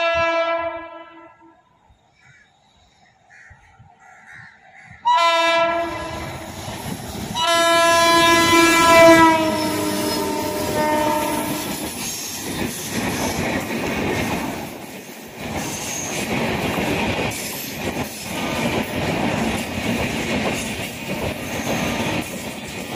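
Express passenger train passing at speed: the electric locomotive's horn sounds briefly, then again in a long blast whose pitch drops as the engine goes by. It is followed by the steady rumble and clickety-clack of LHB coaches running past.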